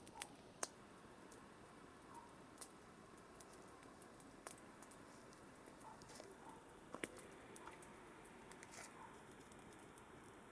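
Campfire crackling: burning wood giving irregular sharp pops and snaps over a faint steady hiss.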